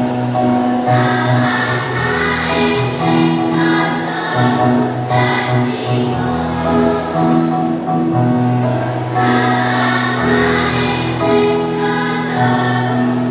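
Primary-school children's choir singing in parts, with long held notes that change every second or so.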